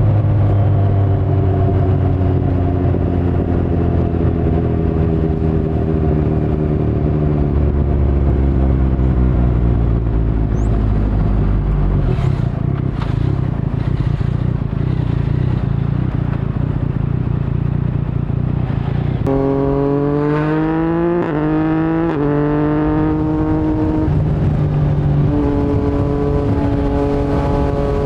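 Yamaha MT-09's three-cylinder engine through an Akrapovic full-system exhaust with no dB killer, heard from the rider's position with wind rumble. The revs fall slowly as the bike rolls off for the first twelve seconds. About nineteen seconds in, it pulls hard with the pitch climbing through two quick upshifts, then settles to a steady cruise.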